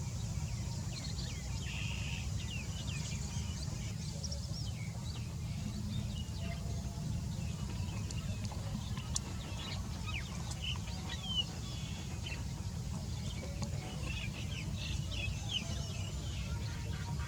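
Many short, high bird chirps and squeaks scattered throughout, over a steady low rumble.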